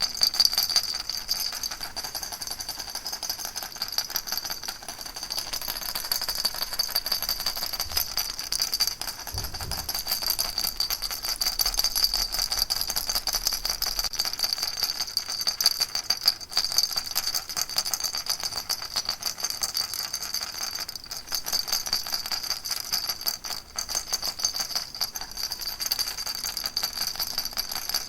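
Baby rattle shaken continuously in a dense, even stream of small rattling clicks with a steady bright shimmer, never pausing.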